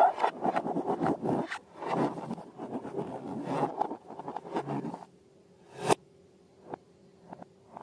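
Balloons and slime being handled, with irregular rubbing and scraping for about five seconds. A sharp click follows about six seconds in, then a few faint ticks.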